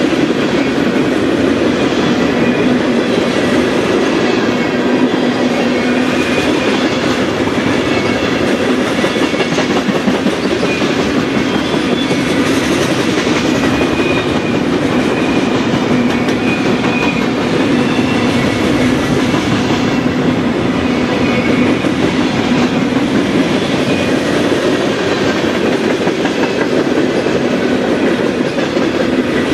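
Freight train passing at close range: the steady rumble and clickety-clack of the freight cars' wheels rolling over the rails.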